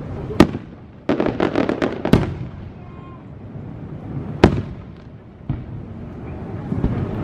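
Fireworks shells bursting overhead: a sharp bang, then a quick run of about nine crackling reports, another bang, and a loud single bang about four and a half seconds in, followed by a smaller one.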